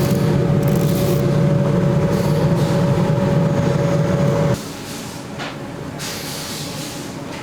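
An electric workshop machine in a bootmaking shop running with a steady hum, then switched off and stopping abruptly about four and a half seconds in. Quieter handling and scraping noises follow.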